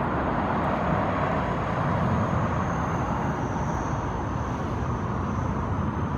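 Steady engine rumble of passing traffic, with a faint high whine running through the middle and later part.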